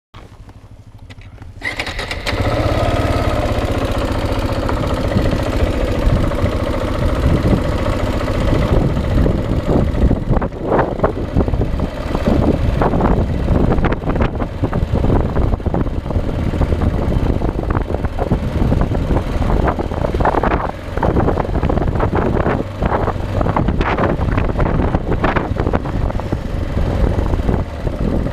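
Motorcycle engine starting about two seconds in and then running, with many short knocks and rattles over it.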